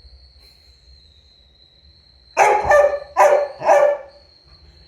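Pet dog barking three times in quick succession about halfway through, over a faint steady high whine.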